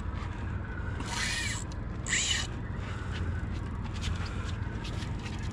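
Fishing reel buzzing in two short raspy bursts as a hooked shark pulls against the drag, over a low steady rumble.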